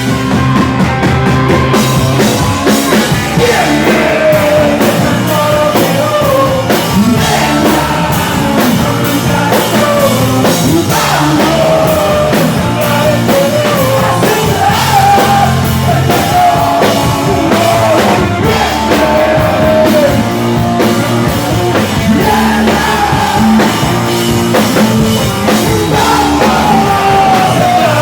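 Live rock band playing loudly with distorted electric guitars, bass and drums under a sung, partly yelled lead vocal.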